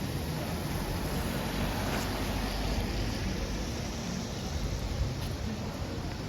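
Steady outdoor street noise on a wet day: a low traffic rumble under an even hiss.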